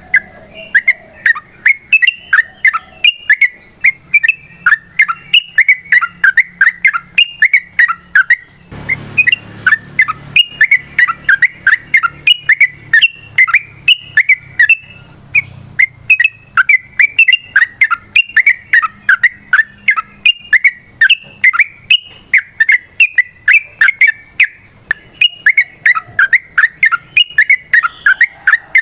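Yellow-vented bulbul (trucukan) singing long, fast runs of bubbly chirping phrases, repeated almost without a break. There is a steady high whine underneath, and a short rustle about nine seconds in.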